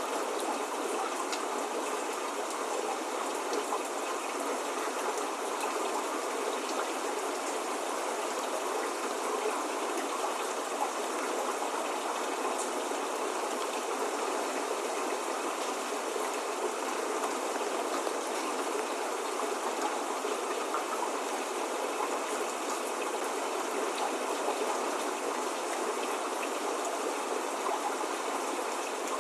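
Steady spring rain falling: an even hiss of many drops, with the odd single drop ticking out of it now and then.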